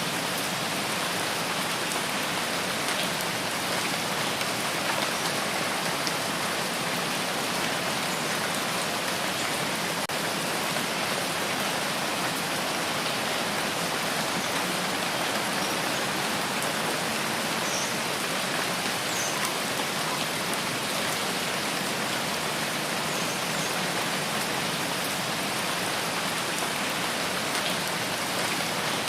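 Steady rain falling on foliage, an even hiss with faint scattered drop ticks.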